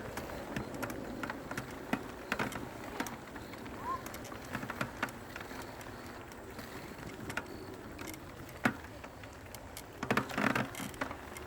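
Mountain bike rolling down a rough dirt trail: tyres on dirt and stones, with scattered clicks and rattles from the bike. A louder burst of clatter comes about ten seconds in.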